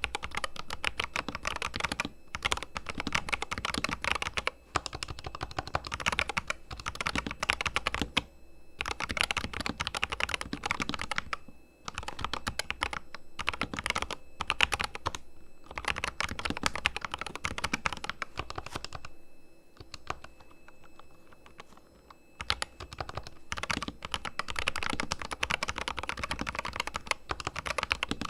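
Fast continuous typing on a Corsair K100 RGB mechanical keyboard with fully lubricated switches, the keystrokes running together in a dense clatter. A few short breaks interrupt it, and there is a lighter, sparser stretch of typing a little past the middle.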